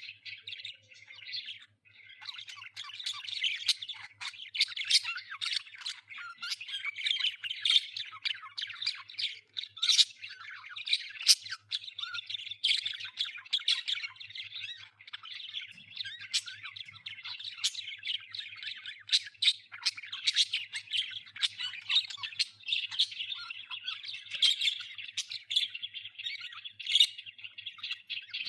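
A group of budgerigars chattering without pause, warbling calls mixed with many sharp squawks.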